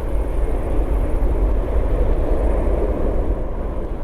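Jet engines of a Boeing 737-500 (CFM56-3 turbofans) passing close by, a loud steady rumble and rushing noise that begins to fade near the end.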